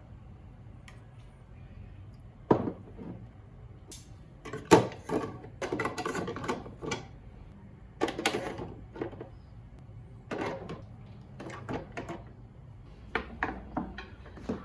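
Kitchen items being handled and put away: scattered knocks, clicks and clatters at irregular intervals, busiest a few seconds in, over a low room hum.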